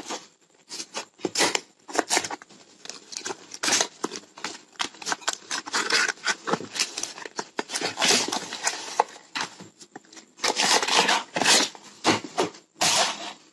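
A small cardboard product box being opened and its paper contents handled: irregular rustling, scraping and crinkling with brief pauses.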